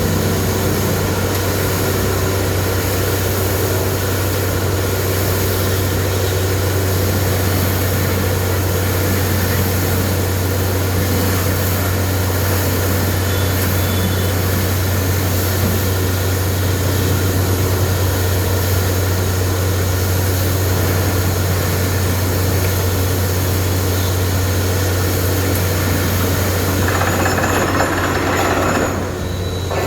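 Borewell drilling rig's engine running steadily with a deep, constant hum. Near the end the sound briefly changes and the level dips for a moment.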